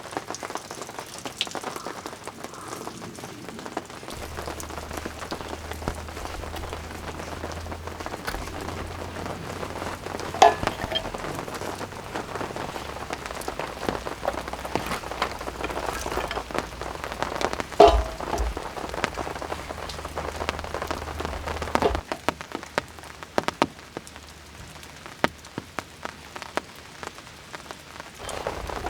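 Steady rain falling, with scattered drops striking sharply and two louder knocks, about ten and eighteen seconds in.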